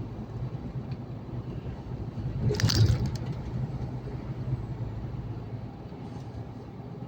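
Truck engine and road noise as a steady low drone, with a short louder rush about two and a half seconds in.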